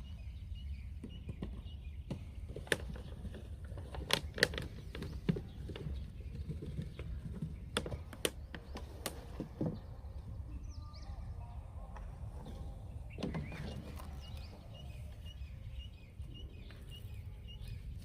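Outdoor ambience: a steady low rumble with scattered sharp clicks and knocks, and faint short chirps repeating in quick rows near the start and again near the end.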